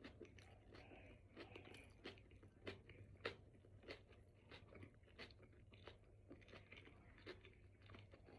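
Faint close-up chewing of a mouthful of a steak and cheese sub, with irregular soft crunches and mouth clicks.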